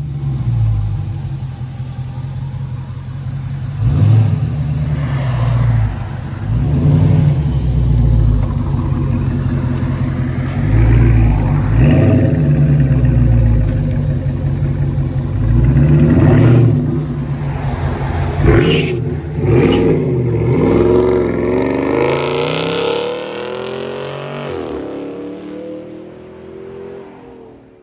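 A 2020 Dodge Charger Scat Pack's 6.4 L HEMI V8 through a dual exhaust with Carven R-Series mufflers and the mid and rear resonators deleted, revving and accelerating, its pitch rising and falling again and again. Near the end the pitch sweeps down and the sound fades out.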